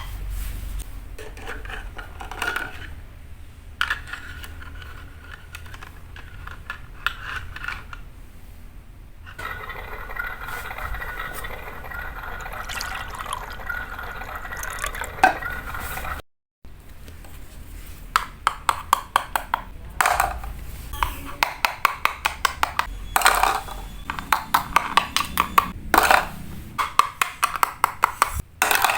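Cooking with miniature cookware: liquid poured and stirred in a tiny pot or pan. After a cut, a long run of quick, sharp taps of small utensils against the cookware, several a second.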